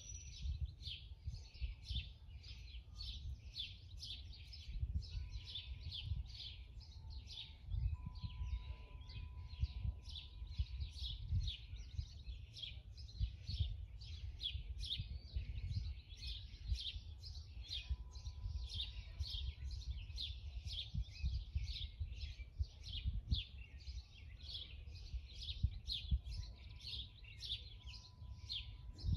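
Birds chirping continuously in quick repeated high chirps, several a second, over a low uneven rumble.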